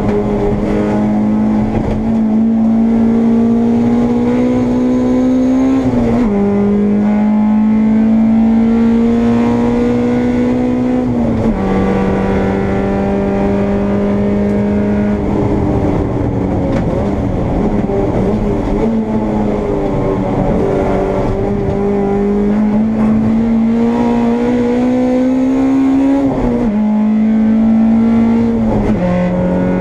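Honda Integra race car's four-cylinder engine heard from inside the car at high revs, its note climbing steadily under full throttle and dropping sharply at each upshift, about four gear changes in all.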